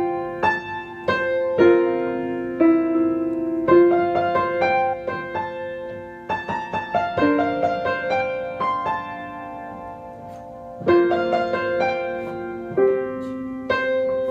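Piano playing a slow beginner piece in F major: single notes and chords struck and left to ring, with a quicker run of notes about six to seven seconds in and a softer stretch before a new phrase starts near the end.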